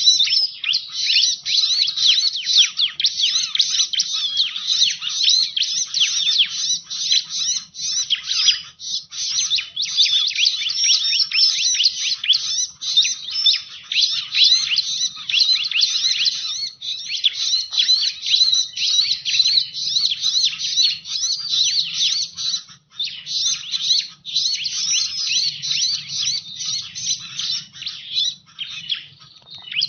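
Bar-winged prinias (ciblek) calling: a dense, continuous chatter of rapid high chirps and trills, played as a lure call to draw in birds.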